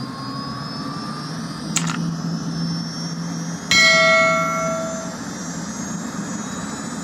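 Turbine engine of an MTT Y2K jet-powered motorcycle running steadily: a low rush under a high whine that creeps slowly up in pitch. A short click comes about two seconds in. Nearly four seconds in, a single loud bell-like ding rings out and fades over a second or so.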